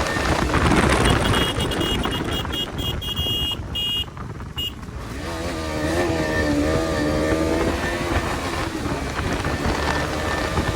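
Motor vehicle engine with a newly fitted exhaust, running with a noisy rumble. Its pitch wavers up and down for a couple of seconds about six seconds in, and there is a brief dip in loudness about four seconds in.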